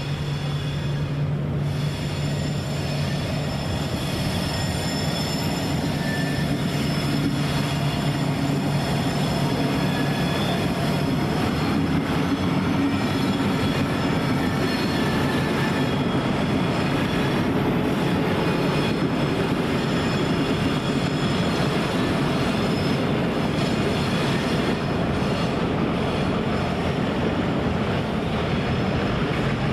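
A train rolling past with a steady rumble and high-pitched squealing from its wheels, several thin tones held throughout; a low hum underneath fades out about twelve seconds in.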